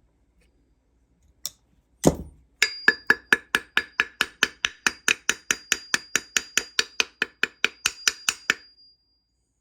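Hammer striking the seized pivot of a rear drum-brake arm: one heavy blow, then a fast, even run of metal-on-metal taps, about four or five a second, each ringing. The arm is frozen solid in its pivot.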